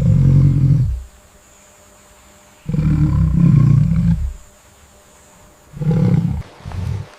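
A large wild animal roaring in four low, rough calls: one about a second long at the start, a longer one a few seconds in, then two short ones near the end.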